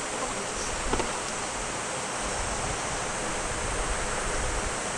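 Mountain valley stream rushing steadily, with a light click about a second in.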